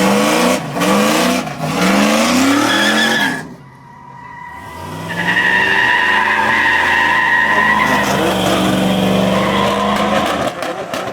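A car doing a burnout or donuts: the engine revs up and drops again about once a second, then after a brief lull holds high revs while the tyres squeal steadily for about five seconds.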